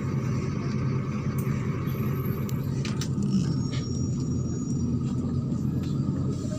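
MAZ-103 city bus heard from inside while moving: a steady low drone from the engine and road, with a few light clicks and rattles.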